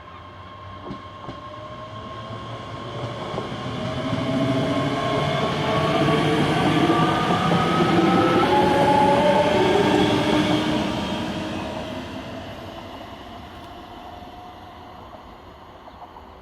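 A train passing, growing louder to a peak about halfway through and then fading away, with a motor whine that climbs in pitch as it approaches.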